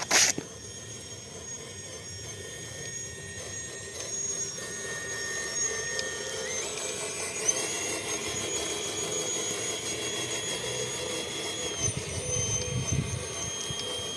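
Electric drive motor and gear train of a 1/14-scale RC tractor running with a steady high whine that rises in pitch about halfway through as it speeds up. A sharp knock at the very start.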